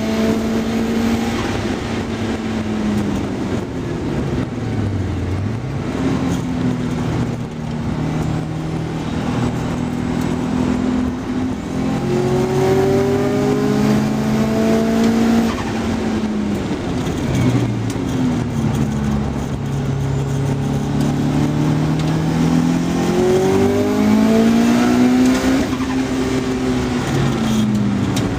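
Car engine driven hard on a race circuit, heard from inside the car: the engine note climbs through the gears and drops away for braking and downshifts again and again, with a deep drop about five seconds in.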